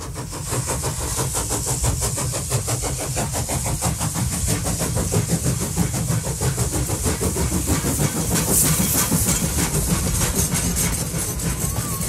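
A train running: a steady low rumble with fast, even clicking throughout.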